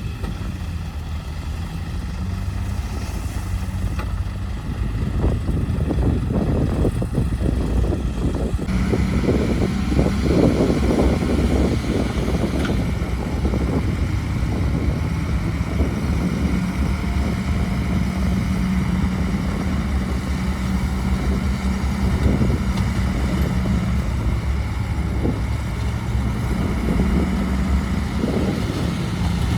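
Heavy dump truck's diesel engine running steadily under load, growing louder over the first several seconds with a sudden rise in its higher sound about nine seconds in, then holding steady.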